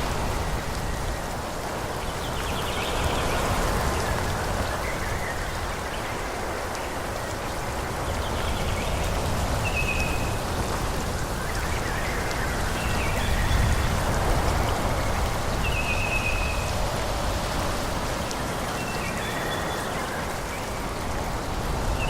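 Forest ambience: a steady rushing hiss that swells and eases gently, with a few short, high bird chirps, the clearest about halfway through, again a few seconds later, and at the very end.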